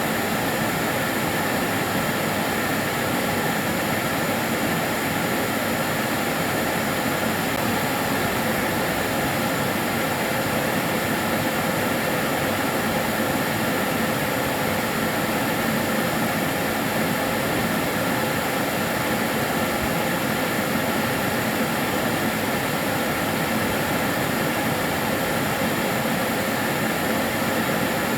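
Karcher DS 6 Premium water-filter vacuum cleaner running steadily, its motor giving an even whooshing noise with a few faint steady tones above it.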